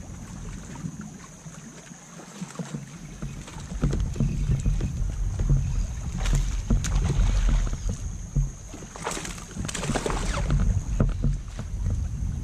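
Fishing kayak on the water: low sloshing and handling noise against the hull, with a few sharper splashy strokes about six and nine seconds in.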